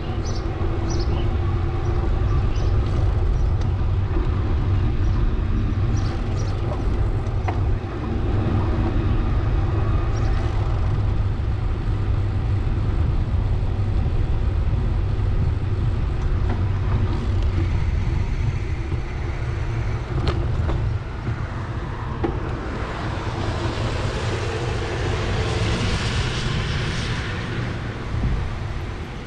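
Steady low rumble of wind on the microphone and rolling noise from a moving bicycle, with a few short bird chirps in the first couple of seconds. In the last third a passing car's hiss swells and fades over about five seconds.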